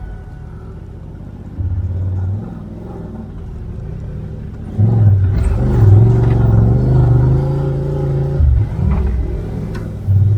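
Side-by-side UTV engine running, with a short rise in revs about two seconds in. It then accelerates hard about five seconds in, holds high revs for a few seconds and backs off near the end.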